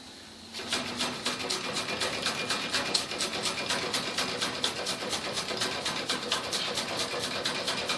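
A Weeden No. 14 toy live steam engine starts running about half a second in. It settles into a fast, even chuffing clatter of roughly seven to eight strokes a second as the steam drives it.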